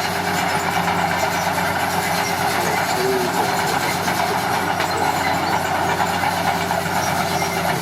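Komatsu D41P crawler bulldozer running steadily, a constant diesel engine hum with the mechanical noise of the machine working.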